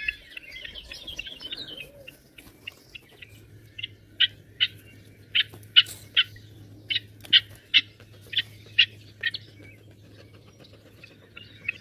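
A bird chirping: a rapid, jumbled twitter for about two seconds, then a string of short, sharp chirps, one or two a second, that stop a couple of seconds before the end.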